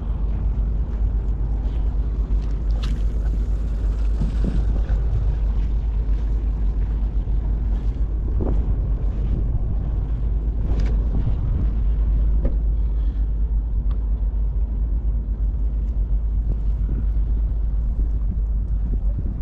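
Steady low wind rumble buffeting the microphone, with a few faint short taps.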